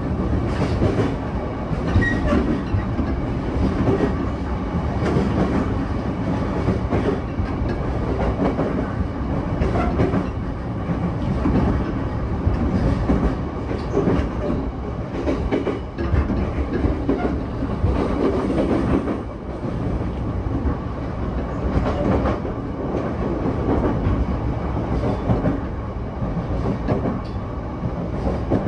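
Running noise inside a JR East E233-7000 series electric commuter car between stations: a steady rumble of steel wheels on the rails, broken by irregular clacks and knocks from the track.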